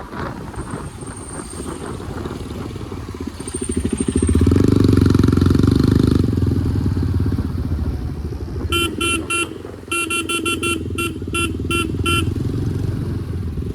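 Motorcycle running through city traffic, with steady engine and road noise that swells loudly for about two seconds around four seconds in. About nine seconds in, a vehicle horn sounds in a rapid string of short beeps lasting roughly three and a half seconds.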